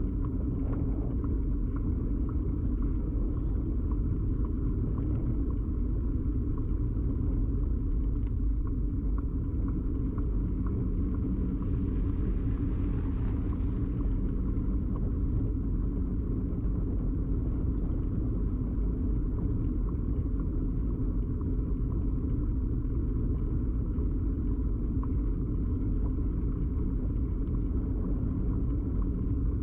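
Steady low rumble of a bicycle ride picked up through a bike-mounted camera: frame vibration and tyre-on-road noise carried straight into the microphone.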